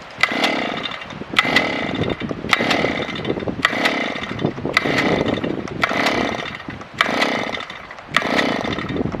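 Gas-powered auger's small two-stroke engine being pull-started over and over, about once a second: each yank of the recoil cord gives a sharp start and a short whirring crank, about eight times, and the engine never catches.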